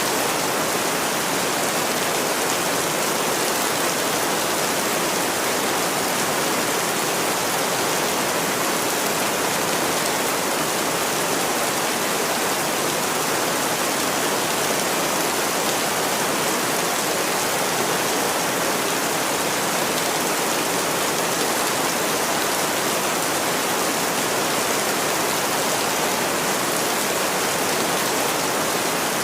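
Steady rain, an even hiss with no distinct drops or breaks.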